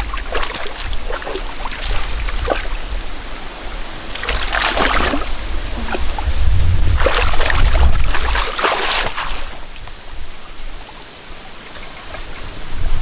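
Muddy water splashing and sloshing in irregular bursts, loudest about four to five seconds in and again from about seven to nine seconds in, then quieter.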